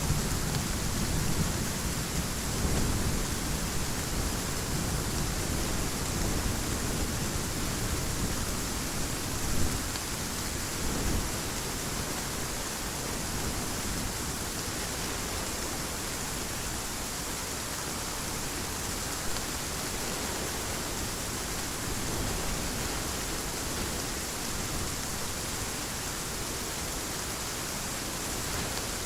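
Heavy rain falling in a steady hiss, with a low roll of thunder dying away in the first few seconds.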